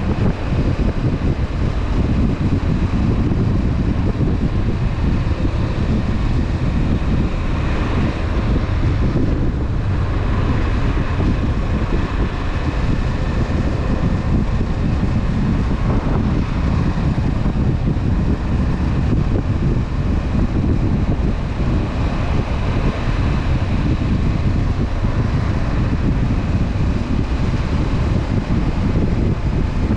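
Steady wind noise on the action camera's microphone over a Honda CB500F motorcycle's parallel-twin engine running while riding along.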